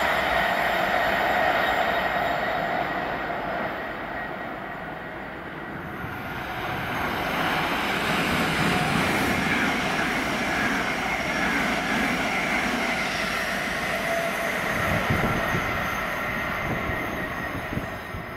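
The diesel HST running away dies down in the first few seconds. Then an electric multiple-unit passenger train comes through the station, its wheels running over the rails, and fades near the end.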